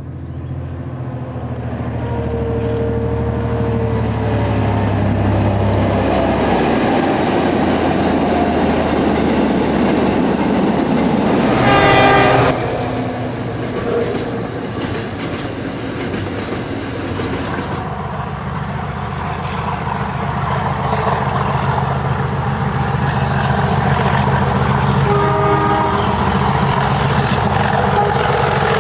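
Diesel locomotive hauling a train past: a low engine throb, then the rumble and clatter of wheels on the rails. A short, loud horn blast sounds about twelve seconds in, and the horn sounds again near the end.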